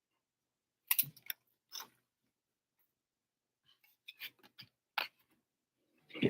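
Trading cards and their packaging being handled on a table: a few short, scattered taps and rustles as cards are set down and packs are moved.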